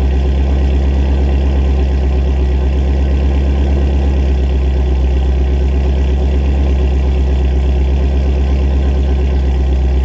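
Shelby GT350's 5.2-litre flat-plane-crank V8 running steadily at idle-level revs through Kooks long-tube headers and exhaust, a deep even pulse with no revving.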